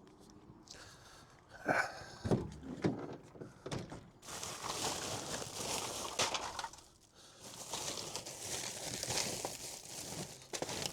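Handling noise of things being moved about and rummaged through: a few knocks about two seconds in, then a long spell of rustling and clattering with a short pause in the middle.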